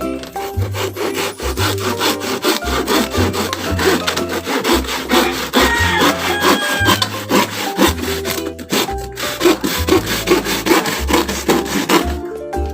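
Saw cutting through wood in rapid repeated strokes, stopping near the end.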